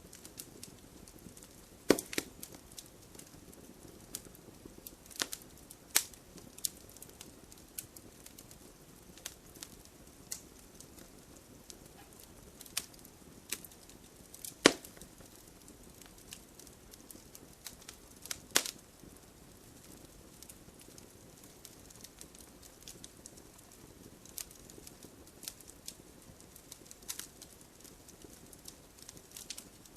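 Wood logs burning in a fireplace, crackling with irregular sharp pops over a soft steady hiss; the loudest pops come about two, six, fifteen and nineteen seconds in.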